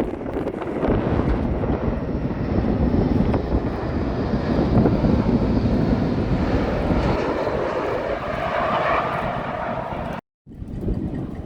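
Airplane engine passing at an air show: a heavy, noisy rumble with a higher component rising in pitch toward the end. The sound cuts out abruptly about ten seconds in, then resumes.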